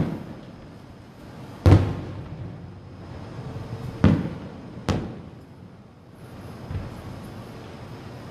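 Aerial fireworks shells bursting: four sharp booms, each trailing off in a rumbling echo, and a fainter one near the end.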